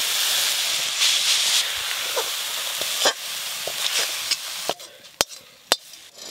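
Hot coconut-and-jaggery filling sizzling steadily in a metal wok as it is scraped out with a metal spatula. The sizzle stops near the end, and a few sharp metal clinks follow as the spatula strikes the wok and a steel plate.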